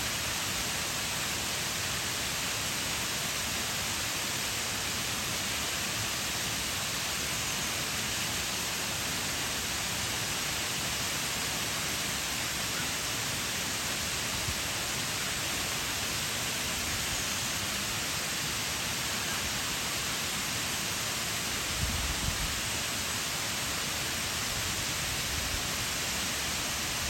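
Shiraito Falls waterfall: falling water crashing and splashing as a steady, even hiss. A brief low rumble about three-quarters of the way through.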